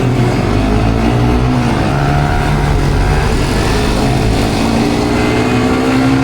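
Motorbike engine running at riding speed, its pitch rising slowly and then holding steady, with wind rumbling on the microphone.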